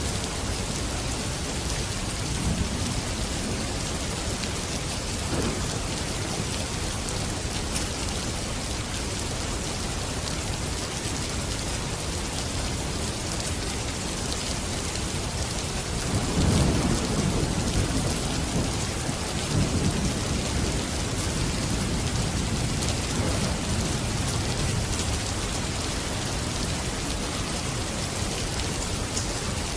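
Steady rain falling with an even hiss, with a low roll of thunder that swells and fades a little past halfway through.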